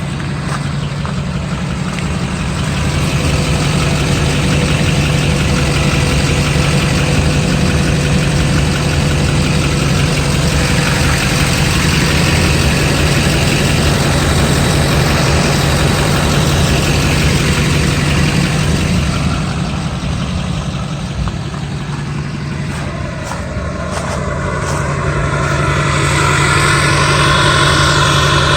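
Straight-piped LBZ Duramax 6.6-litre V8 turbo-diesel running with an open, unmuffled exhaust note. It gets louder a few seconds in, eases off past the middle, and builds up again near the end.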